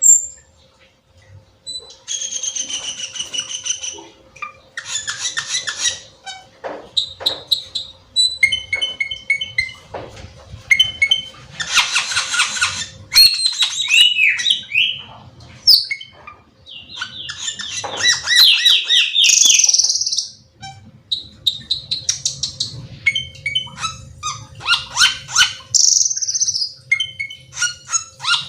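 Cucak keling singing a long, varied song of whistled notes, fast chattering trills and falling notes, delivered in phrases with short pauses between them.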